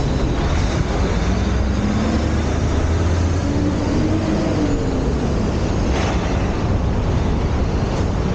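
Steady wind rush on the microphone and rolling road noise while riding a bicycle.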